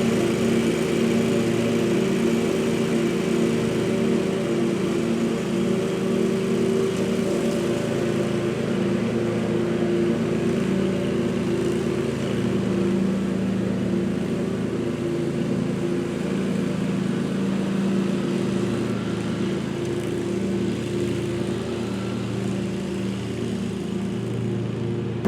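Scag zero-turn mower engine running steadily under load while picking up leaves into its clamshell bagger, growing slightly fainter toward the end.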